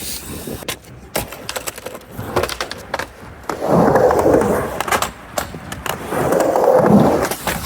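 Skateboard riding a mini ramp: a few sharp clacks of the board about a second in, then the wheels rolling through the transition twice, each pass rising and fading.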